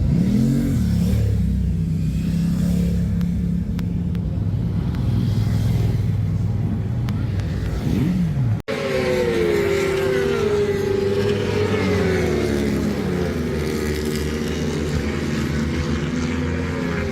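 Superbike racing motorcycles running on track, their engine notes rising and falling as they accelerate and pass. After a sudden cut about eight or nine seconds in, several bikes are heard together, their engine notes sweeping up and down over one another.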